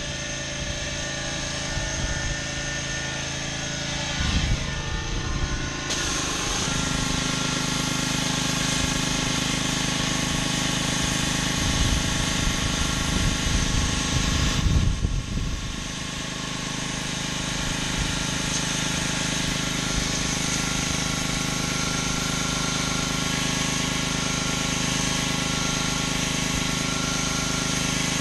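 Pressure washer's engine running steadily under the hiss of high-pressure water spray on concrete. The spray hiss grows stronger about six seconds in, and the sound briefly changes about halfway through before settling back to a steady run.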